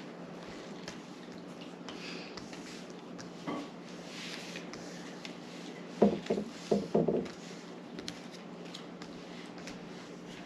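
Trading cards being handled and laid out on a table: soft rustling and sliding with light taps, over a steady low hum. About six seconds in comes a quick cluster of four or so louder, muffled knocks.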